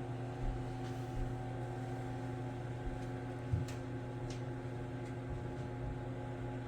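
Steady electrical hum, like an appliance or room machinery running, with a few faint clicks.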